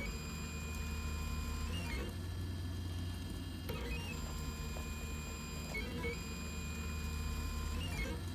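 FDM 3D printer running, its stepper motors whining in sets of steady tones that jump to new pitches every couple of seconds as the print head changes direction, over a steady low hum. It is laying the priming line that checks the filament is flowing properly before the first layer.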